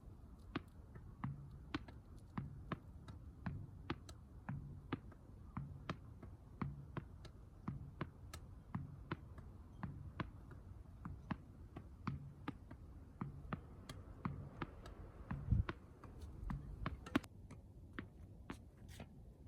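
Tennis ball being hit with a racket and bouncing, repeated in a quick, even rhythm of sharp knocks about two a second, with one heavier thump about two-thirds of the way through.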